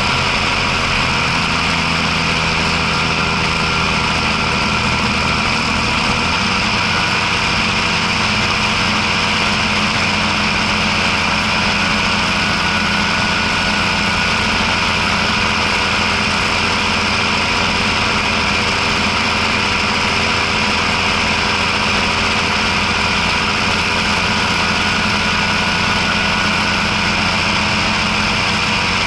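John Deere 6620 tractor's six-cylinder turbo diesel running steadily, with a slight change in engine note about six seconds in.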